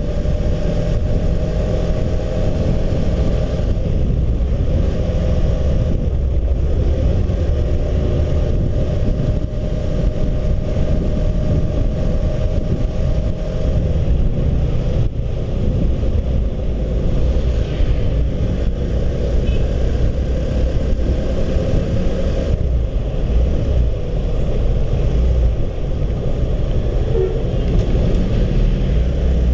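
Honda CB150R's single-cylinder engine running at a steady pace while riding, with a heavy low rumble.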